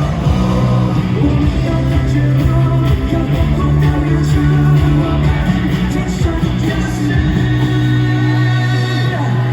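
A pop-rock band playing live, with guitars, bass and drums and a singing voice over them.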